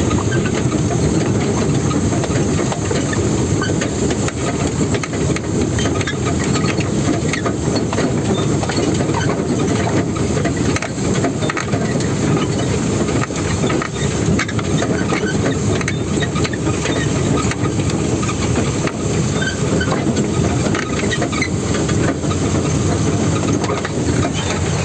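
Heavy sixteen-wheel truck driving along a river path: a steady, loud engine rumble mixed with many small rattles and clicks throughout.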